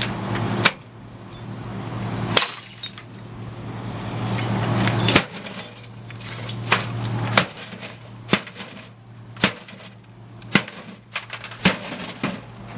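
Microwave oven being smashed: about ten sharp blows land on its metal casing and glass, roughly a second apart, with cracking and clanking.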